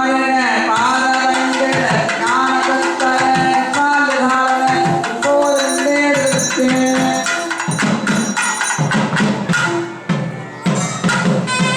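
Indian devotional music: a melodic line over held drone notes, with hand drums and jingling percussion keeping a fast rhythm. About eight seconds in, the melody drops away, leaving mostly drumming, before it comes back near the end.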